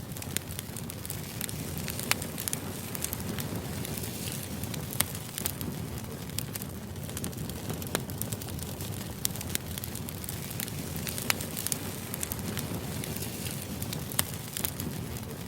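White-noise ambience: a steady low rush with frequent irregular sharp crackles.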